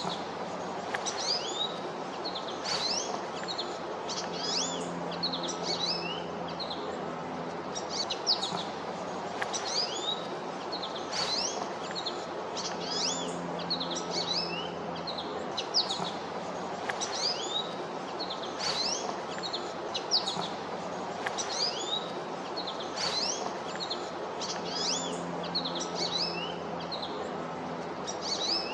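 Small birds chirping over and over, with short high chirps that sweep up or down in pitch, one to three a second, over a steady background hiss.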